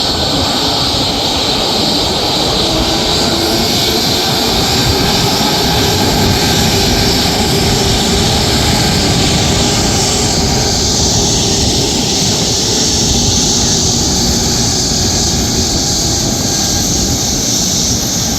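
Jet airliner engines running steadily at low power with a loud, even whine and hiss as the aircraft taxis in to park; about ten seconds in, the high hiss shifts upward.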